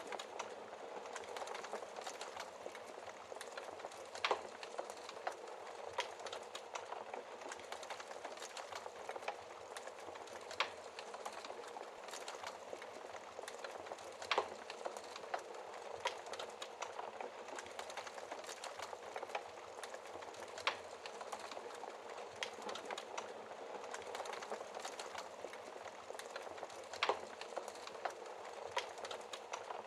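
Wood fire crackling in a fireplace: a steady hiss of burning with frequent small pops, and a few louder snaps, about one every five or six seconds.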